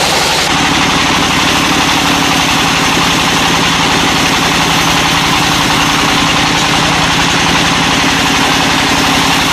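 Sawmill engine running steadily at an even speed, with a dense hiss over its hum.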